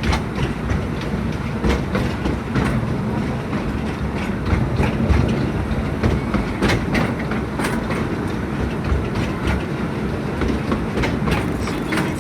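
Narrow-gauge forest railway train running, heard from aboard: a steady rumble of the cars with irregular clacks and knocks as the wheels cross the rail joints.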